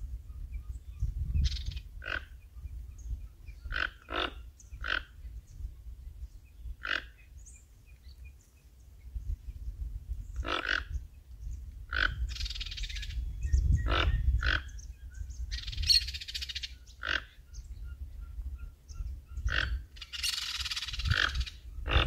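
Birds calling with short, sharp notes at irregular intervals, about a dozen in all. Underneath is a low rumble of wind on the microphone, and a few brief bursts of hiss come about halfway through and near the end.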